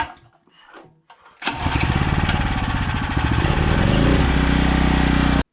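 A motor-driven machine starting up. It comes in suddenly as rough pulsing that speeds up and rises in pitch, settles into a steady run about four seconds in, then cuts off abruptly.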